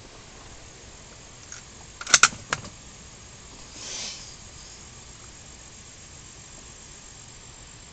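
A few sharp metallic clicks and clacks of a rifle being handled: a faint click, then two loud clacks close together about two seconds in and one more just after, followed by a brief soft hiss.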